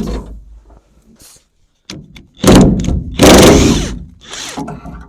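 Metal-on-metal work on the truck, likely the last ground-strap bolt being worked loose: a thunk at the start, then two loud, rough rattling bursts about two and a half and three and a half seconds in.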